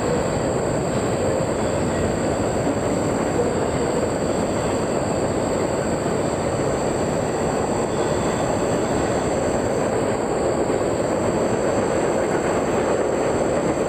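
A train's cars rolling past on the rails, making a steady, even rumble with no break.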